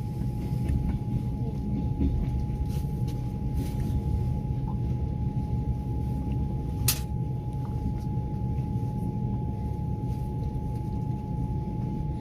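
Passenger train under way, heard from aboard: a steady low rumble of wheels and carriage with a thin, steady high whine. There is a single sharp click about seven seconds in.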